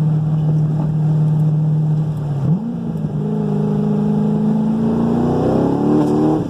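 Cammed LS7 V8 of a 2010 Corvette Z06 with a new exhaust, droning steadily at cruise. About two and a half seconds in, the revs dip and jump, then rise steadily under hard acceleration, climbing faster near the end before cutting off suddenly, which the driver puts down to a little bit of traction cut.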